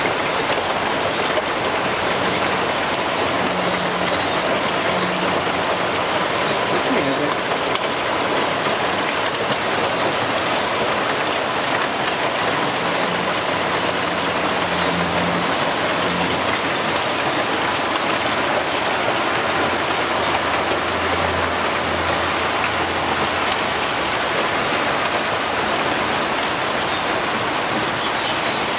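Heavy rain pouring down steadily, a dense, even hiss of drops hitting the ground and surfaces.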